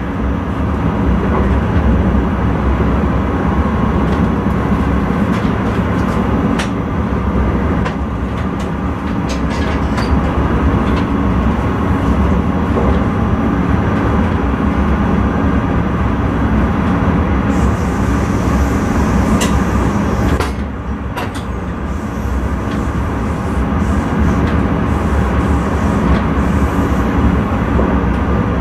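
Intercity train running along the track, heard from inside the driver's cab: a steady low rumble with scattered sharp clicks, and a high hiss for a few seconds past the middle.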